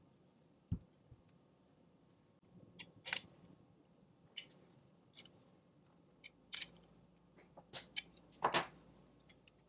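Scattered light clicks and knocks of small parts and tools being handled, about a dozen spread irregularly, the loudest knock near the end.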